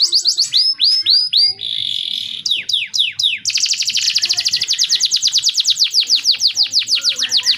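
Male domestic canary singing: a run of repeated falling whistled notes, a short buzzy note about two seconds in, then from about three and a half seconds in a long, fast, even trill of roughly ten notes a second.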